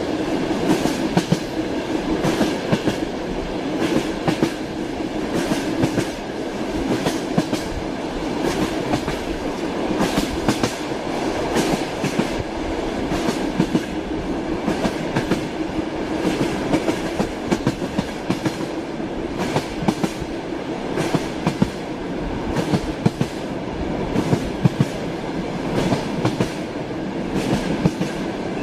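Train wheels clattering over the rail joints as a train runs along steadily: a continuous rumble with a low hum and a constant scatter of sharp clacks.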